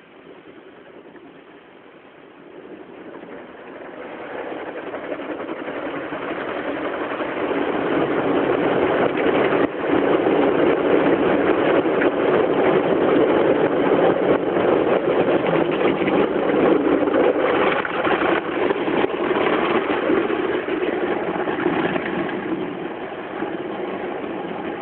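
Automatic car-wash machine spraying detergent-laden water onto a car in a heavy, rain-like downpour: a dense rushing patter that builds up over the first several seconds, stays loud and steady through the middle, and eases slightly near the end.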